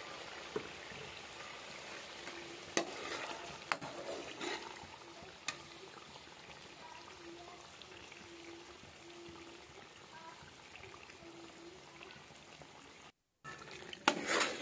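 Chicken and a white onion-style paste frying in a metal pot with a steady sizzle, a metal spoon clinking against the pot a few times in the first half. A louder spoon clatter comes right at the end.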